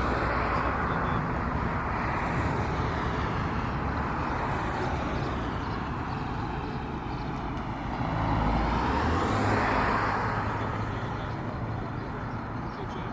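Road traffic: vehicles passing on the road, their tyre and engine noise swelling and fading. The loudest one goes by about nine seconds in.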